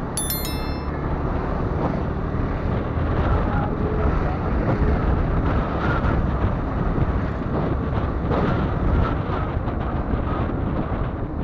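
Wind rushing over the microphone and road noise from a motorcycle on the move, with a short vehicle horn beep right at the start.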